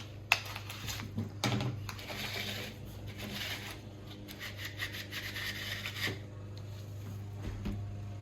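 Repeated rubbing and scraping strokes against a surface, with a sharp click about a third of a second in, over a steady low hum.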